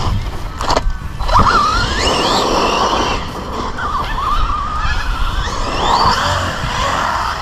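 Team Associated Rival MT10 RC monster truck's electric motor whining as it is throttled on and off, the pitch rising and falling several times, over tyre and drivetrain noise. A couple of sharp knocks about a second in.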